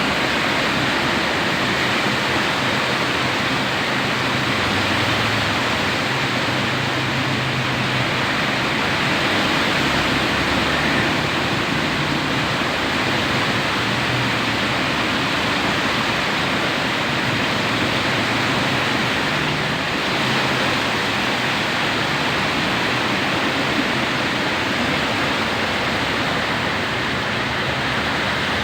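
Heavy rain pouring down in strong wind, a steady dense hiss, with a low hum coming and going underneath.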